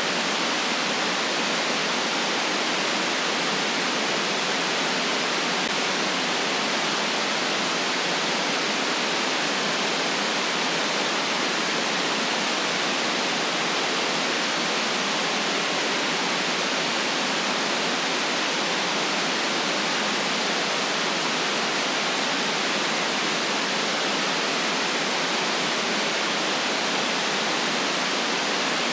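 Steady white noise: an even, unchanging hiss with no deep rumble beneath it and no very high top.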